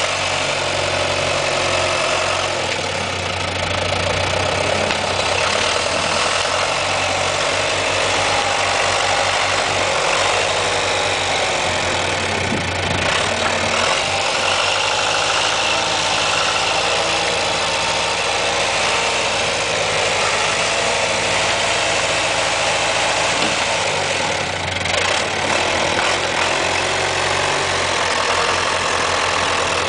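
John Deere tractor engine running steadily at a low, even speed.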